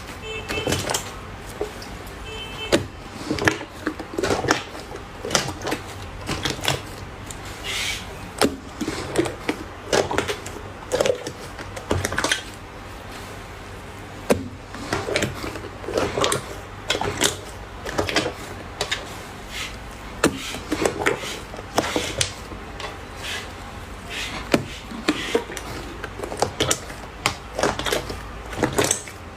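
Slime being squeezed and pressed by hand, making an irregular run of sticky clicks and pops.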